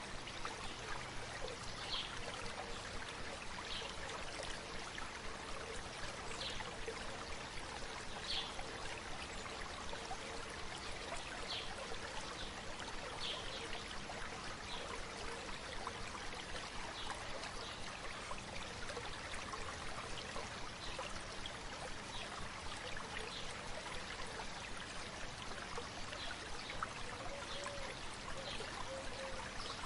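Shallow river babbling and flowing steadily, with short high-pitched sounds every second or two over it.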